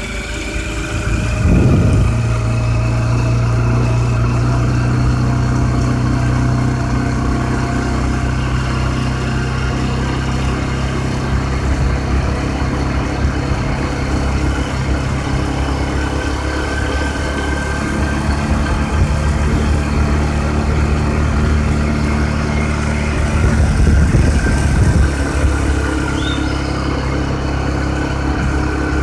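A motor vehicle's engine running steadily, with two louder low rumbles, one about a second and a half in and another around twenty-four seconds.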